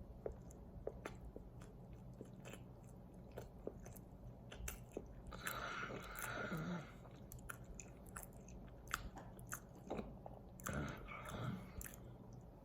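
A person chewing and biting into a soft oatmeal crumble fruit bar, with faint mouth clicks and two louder stretches of chewing about five and eleven seconds in.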